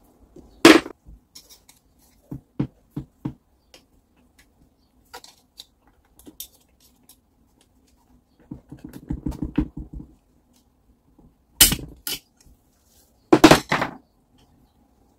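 Metal tools and parts knocking and clinking on a workbench: a loud clank about a second in, a quick run of light taps, a short rattling scrape a little past halfway, and two more loud clanks near the end.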